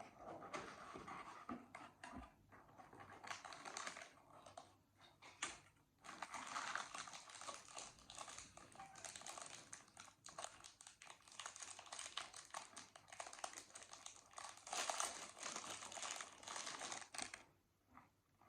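Dense run of quick, light clicks and rustling that stops shortly before the end.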